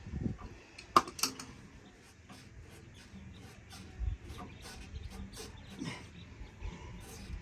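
Scattered sharp clicks and knocks of hand tools on fittings in a boat's engine bay, the loudest pair about a second in, with a dull thump about four seconds in.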